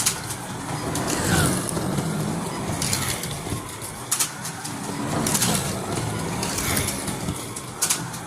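Slot cars racing on a track: small electric motors whining, swooping in pitch again and again as the cars speed up and slow, with sharp clicks and rattles from the cars on the track.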